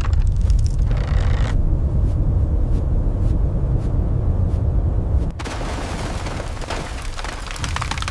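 Deep, continuous low rumble of a boom-like sound effect that cuts off suddenly about five seconds in, giving way to a steady hiss.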